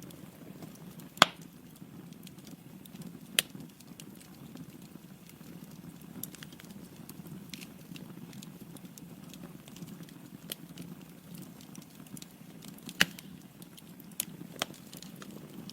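Wood fire burning in a fireplace: a steady low flame rush with scattered sharp pops and crackles from the logs, the loudest about a second in and again near the end.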